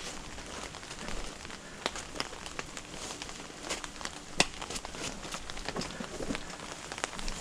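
Rustling and scattered small clicks of a tool belt and bag, holding a saw and pruning shears, being strapped on, with one sharper click a little over four seconds in.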